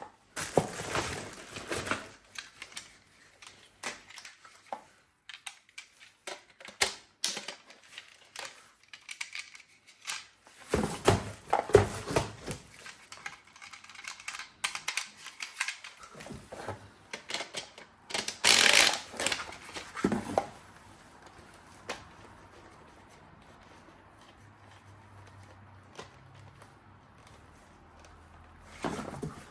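Handling noises: scattered sharp clicks and a few short bursts of rustling, then a quieter stretch with only occasional faint clicks for the last several seconds.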